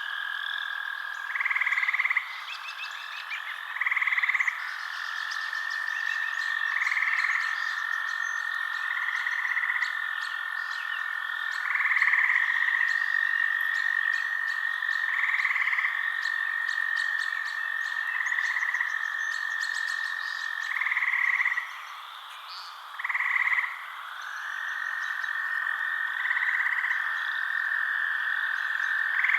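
Frogs calling at night: a steady high trill, broken by louder short calls about every two to three seconds. The trill drops out briefly about three quarters of the way through. Faint rapid ticking sits above it.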